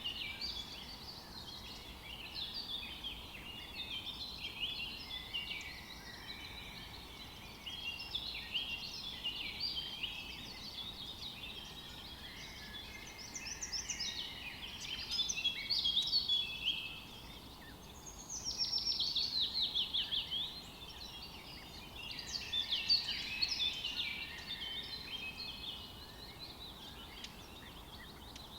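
Many wild birds chirping and calling at once, a dense chorus of short high notes, with a quick run of repeated falling notes partway through.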